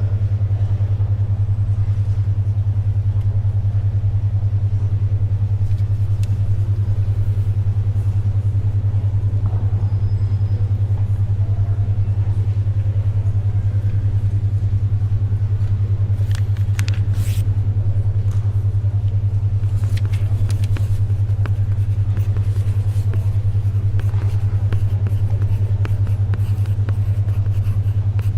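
Steady low hum of a 10.2 Hz alpha-wave brainwave tone, a deep tone throbbing rapidly about ten times a second, over faint library background noise. Pages rustle as they turn a little past the middle.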